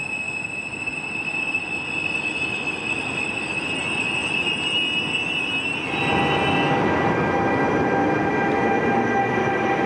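Trenitalia double-deck regional train moving along the platform, its wheels giving a steady high squeal over the rail noise. About six seconds in the squeal fades, and a louder passing electric locomotive takes over with a rumble and steady whining tones.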